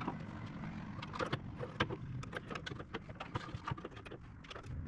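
Small metal grill parts being handled and fitted by hand: irregular light clicks, taps and rattles over a steady low hum.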